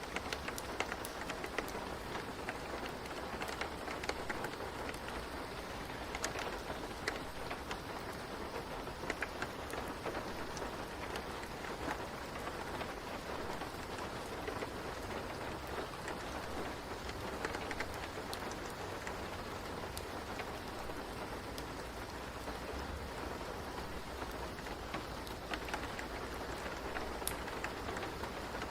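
Steady rain ambience with scattered sharp crackles of a fireplace mixed in.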